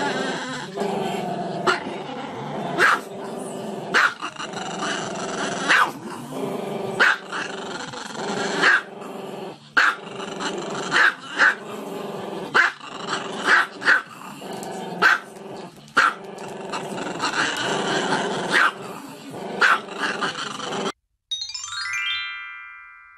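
Small black-and-tan long-haired dog howling along to music, with strong accents about once a second. Near the end the music and howling cut off and a short run of chime tones plays.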